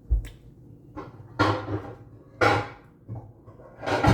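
A thump, then several separate clattering knocks as baking pans are rummaged out of a kitchen cupboard.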